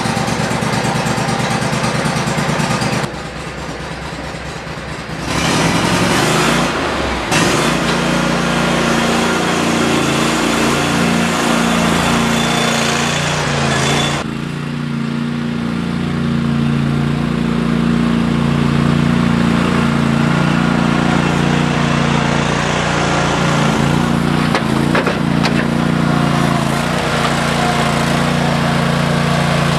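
Exmark Quest riding mower's engine running just after a cold start, at first a little slow. It dips in level about three seconds in, then comes back louder with a steadier, even running note from about six seconds on.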